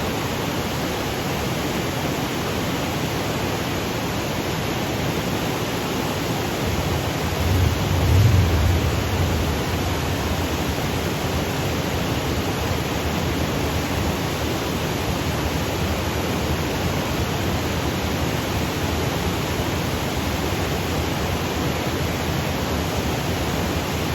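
Steady rush of a mountain waterfall cascading over granite boulders. About eight seconds in, a brief low rumble swells and fades over the top of it.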